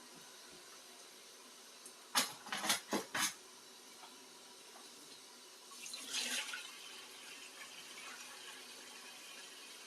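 Dishwashing at a kitchen sink with water running at the tap. About two seconds in there is a quick run of four or five clattering knocks as dishes are handled, and around six seconds a brief louder splash of water.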